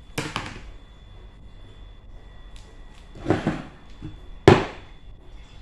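Three short knocks or handling noises, the loudest and sharpest about four and a half seconds in.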